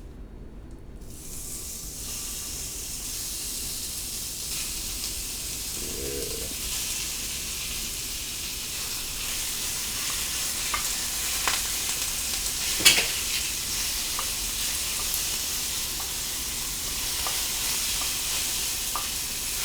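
Diced chicken sizzling in a hot pan, the sizzle starting about a second in and slowly growing louder, while a utensil stirs it with scattered scrapes and taps against the pan, the sharpest one about halfway through.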